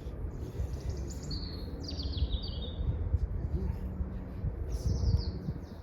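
A songbird singing two short phrases of quick, falling high notes, the first about a second in and the second near the end, over a low rumble.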